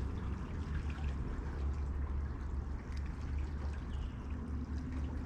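Shallow creek water running and trickling steadily, over a steady low rumble, with a few faint small clicks.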